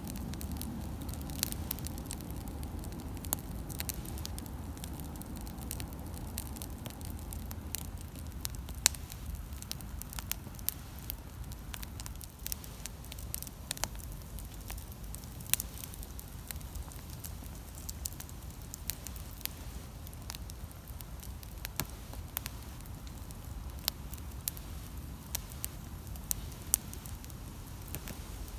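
Wood campfire burning, with sharp pops and crackles scattered irregularly over a low, steady rumble that eases a few seconds in.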